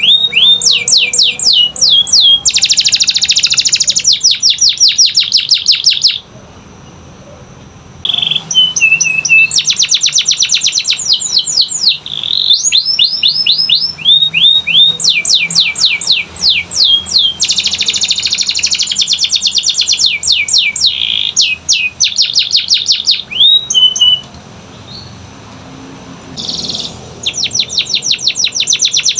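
Canary singing: fast runs of repeated high down-slurred chirps alternating with dense, buzzy rolls. The song breaks off twice for about two seconds, about six seconds in and again near the end.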